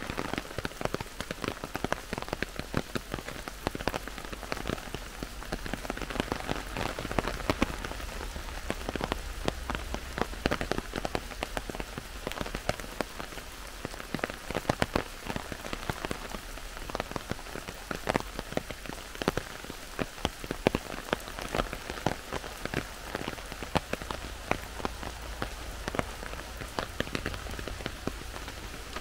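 Heavy rain falling in a forest: a steady hiss with many sharp, close drop hits scattered throughout.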